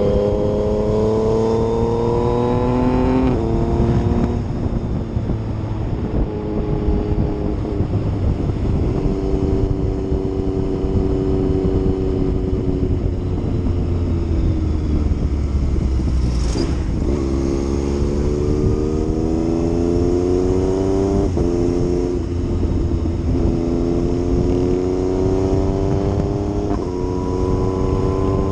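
Yamaha MT-09 inline-three motorcycle engine under way, pulling through the gears: the pitch climbs and then drops suddenly at each upshift. There is a stretch of steady cruising in the middle, then the revs fall away and climb again, with one short sharp tick a little past halfway.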